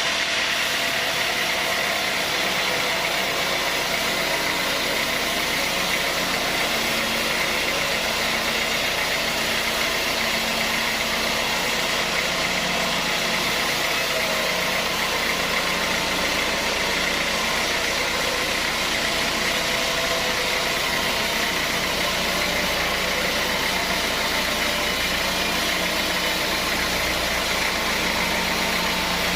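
Sawmill machinery running steadily, a continuous even mechanical drone with a steady hum and a higher whine.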